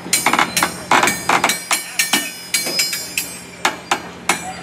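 Railroad cars rolling past, their wheels clanking over rail joints in a quick, irregular run of sharp metallic bangs over a steady low hum.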